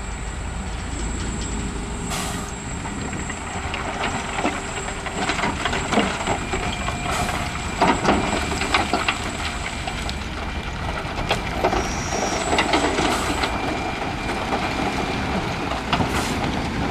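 Dump truck running, with scattered metallic clanks and knocks over a steady mechanical noise.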